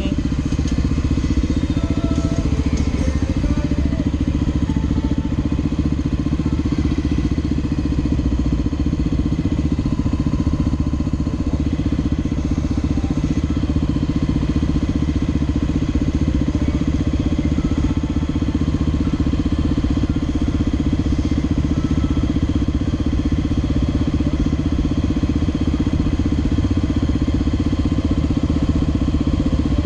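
Motorcycle engine idling steadily while stopped.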